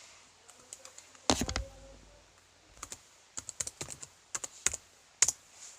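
Computer keyboard typing in short irregular bursts of key clicks, with a heavier thump about a second in.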